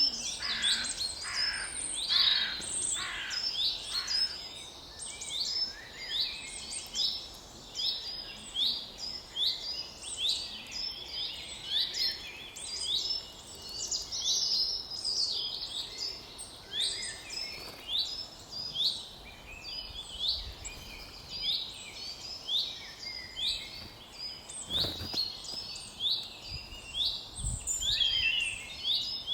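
Woodland birds calling: a steady series of short, high, falling notes repeating about twice a second, with a lower, harsher call repeated in the first few seconds.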